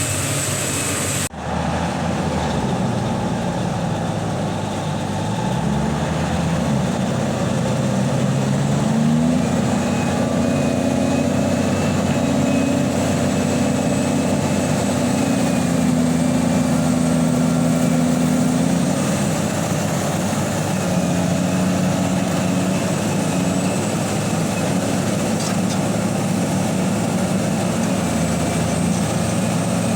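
Large diesel engine of a Liebherr 984 hydraulic excavator running under working load, its note rising a few seconds in and then shifting up and down. A brief dropout about a second in.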